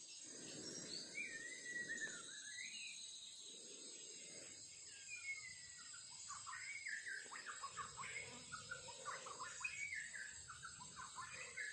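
A songbird singing in varied whistled phrases that slide up and down, turning into a busier run of quick chirps from about halfway through.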